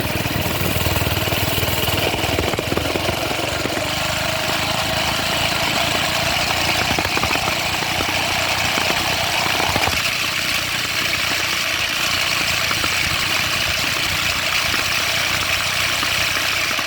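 Minibike's small engine running steadily, its note creeping slowly higher for the first ten seconds or so before it changes about ten seconds in.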